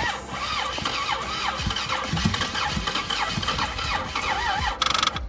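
Starter cranking the turbocharged Dodge Dakota's engine, its whine wavering up and down over and over without the engine catching: the engine is dead after being run to destruction. A short rapid buzz comes near the end.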